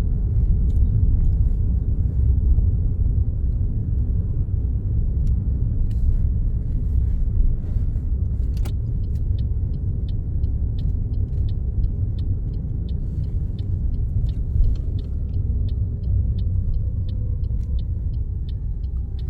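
Car cabin interior: steady low road and engine rumble as the car drives. About halfway through, the turn indicator starts ticking at about two ticks a second, signalling for a right turn at a mini roundabout.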